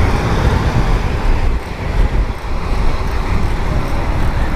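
Wind rushing over a moving cyclist's camera microphone, with city road traffic running steadily underneath.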